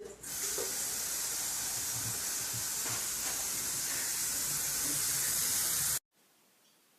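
A steady, even hiss, strongest in the high treble, that cuts off abruptly about six seconds in.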